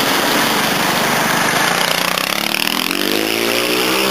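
Street traffic: a steady rush of road noise, with a passing motor vehicle's engine note coming up and rising slightly over the last second and a half.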